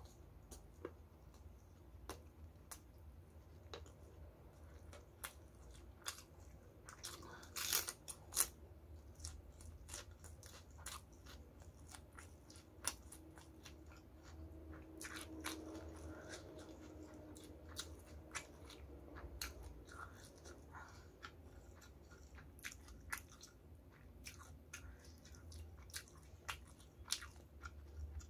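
Close-miked chewing of crispy fried chicken coating and rice, with irregular small crunches and wet mouth clicks; the loudest crunches come about eight seconds in.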